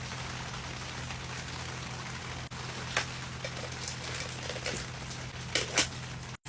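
Steady rain falling on a surface, an even hiss, with a few short sharp taps about three seconds in and twice in quick succession near the end.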